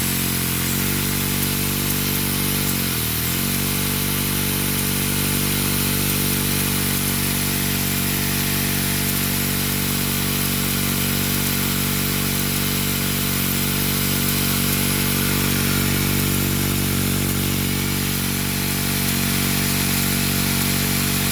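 Lego vacuum engine running steadily at speed as a fast, even mechanical buzz. Its speed sags briefly about half a second in and again about three seconds in, then recovers.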